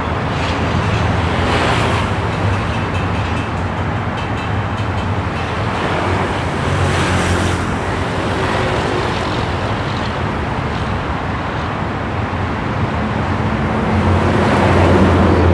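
Motor vehicle noise: a steady low engine hum under a constant rushing wash, swelling slightly a few times.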